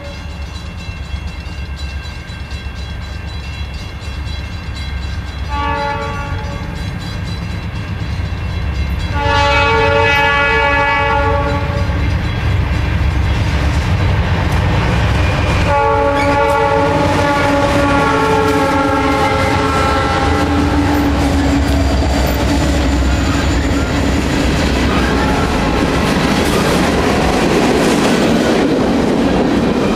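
Norfolk Southern diesel freight train approaching and passing, the lead locomotive's air horn sounding several times over the low rumble of the engines: a brief blast, then longer ones, the last dropping in pitch as the locomotives go by. After that, the rolling clatter of covered hopper cars passing close.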